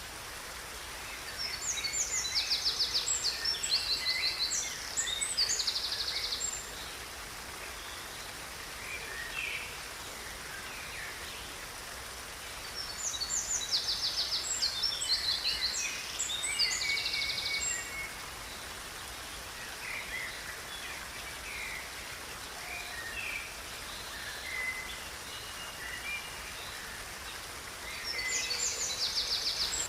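A songbird singing long, complex phrases full of rapid high trills, repeated about every twelve seconds, with scattered single calls in between, over a steady background hiss.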